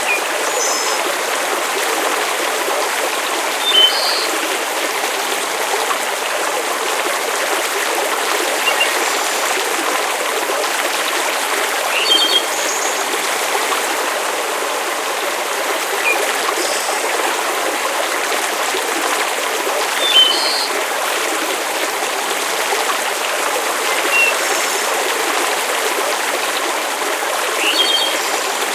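Steady rushing water, like a stream or heavy rain, with short high-pitched pips about every four seconds.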